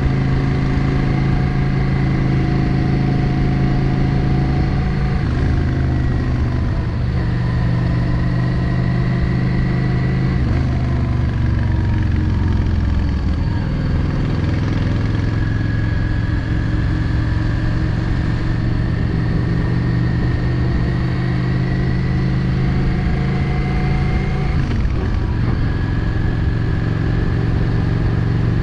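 Yamaha XVS 650 Drag Star's air-cooled V-twin running under way, heard from the bike. The engine note holds fairly steady, then dips and climbs a few times, around five seconds in, between ten and thirteen seconds, and near the end, as the throttle and speed change.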